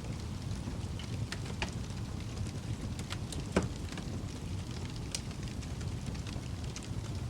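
Wood fire crackling in a fireplace over a steady low rumble of the flames, with scattered sharp pops and one louder pop about halfway through.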